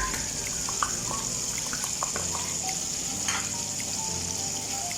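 Gravy liquid of butter and water bubbling and sizzling in a pan on the stove, a steady hiss with a few light clicks.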